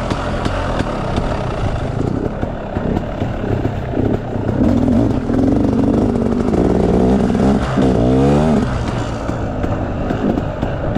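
Off-road enduro motorcycle engine running under changing throttle, its pitch rising and falling, with a quick rev up and back down about eight seconds in.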